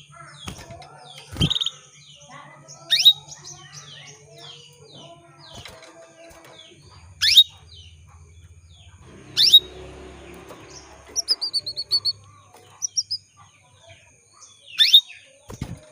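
Female canary calling: loud, sharp chirps that sweep steeply downward, four of them a few seconds apart, with a short run of quick repeated notes partway through and fainter chirping between. These are the female's calls to a male, used to stimulate male canaries into song.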